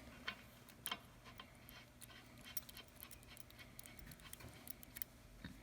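Faint, irregular light clicks and taps of small parts and tools being handled during hand assembly of the log splitter.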